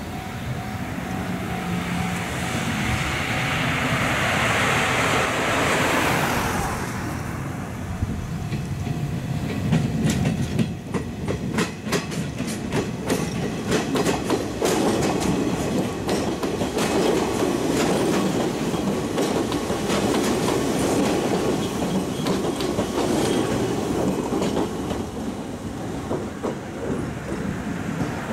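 Izuhakone Railway 3000-series electric train passing close by: a rumble builds over the first few seconds, then from about ten seconds in the wheels clack rapidly and rhythmically over the rail joints for about fifteen seconds, easing off near the end.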